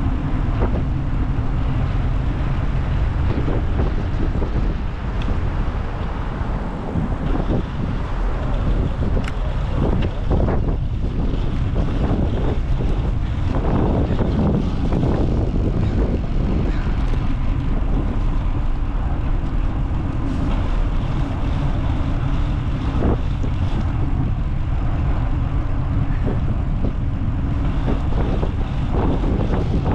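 Wind buffeting the microphone of a moving rider: a heavy, steady low rumble.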